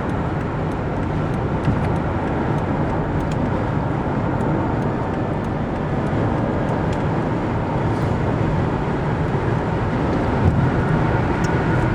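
Steady road and wind noise of a car travelling at highway speed, with a few faint ticks.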